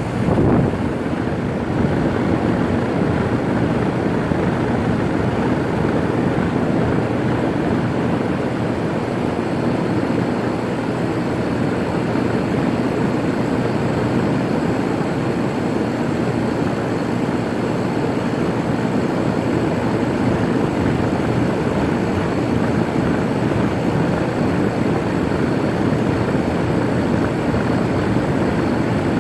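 A 2008 Rheem 4-ton central air conditioner's outdoor condensing unit kicks on suddenly and then runs steadily, with the condenser fan's airflow and the compressor making an even whooshing drone.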